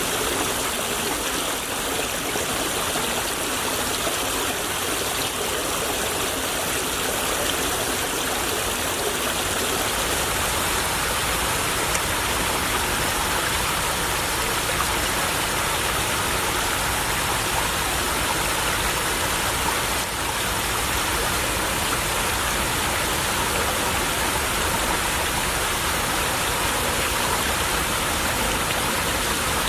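Small stream babbling and trickling steadily over stones. A low rumble joins about ten seconds in and stays underneath.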